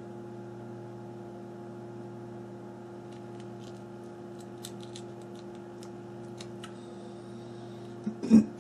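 Faint small clicks and taps of handling small phone parts, scattered through the middle, over a steady electrical hum. A brief louder burst comes near the end.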